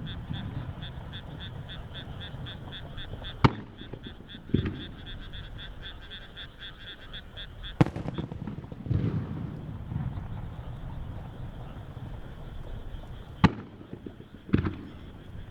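Aerial firework shells bursting one at a time: three sharp bangs spaced about four to five seconds apart, each followed about a second later by a low rumbling boom. A rhythmic pulsing call, about three pulses a second, runs through the first half and stops about halfway.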